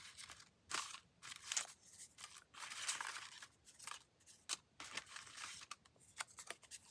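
Paper and card stock being handled and shuffled: irregular crisp rustles and sharp little clicks, with a longer rustle about halfway through.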